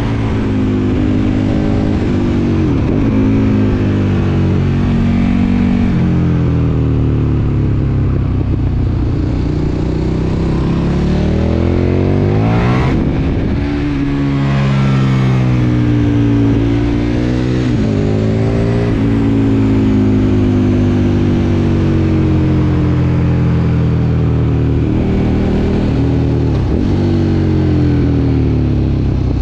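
KTM 1290 Super Duke R's V-twin engine under way, the revs repeatedly climbing under throttle and falling off again. About midway there is a quick drop and sharp climb in pitch.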